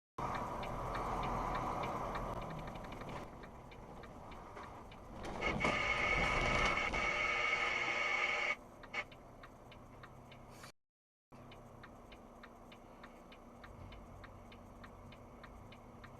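Vehicle noise with a loud steady high-pitched tone for about three seconds that stops abruptly; after a short break, even regular ticking, about three ticks a second, over quiet background noise.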